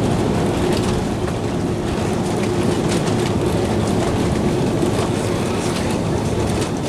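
Cabin noise of an Airbus A330-300 rolling on the ground just after landing: a loud, steady rumble of the engines and of the wheels on the pavement, with a steady hum under it.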